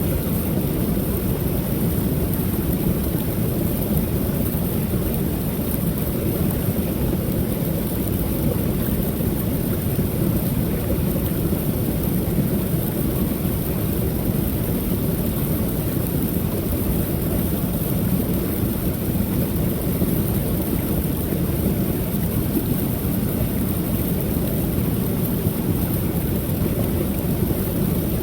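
Creek waterfall: a steady, low rush of falling water that holds even throughout.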